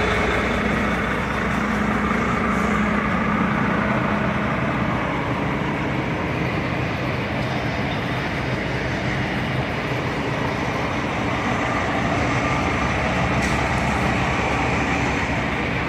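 Steady vehicle road noise with a low, even engine hum.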